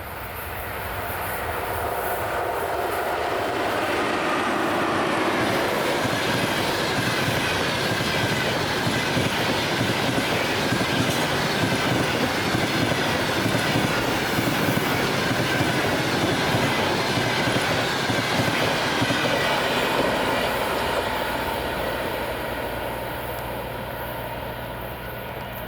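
A passenger train hauled by an EP1M electric locomotive climbing a grade passes close by: a dense rumble with clickety-clack of wheels over rail joints and a faint squeal from the wheels. It builds over the first few seconds, holds steady for most of the time, then fades away near the end.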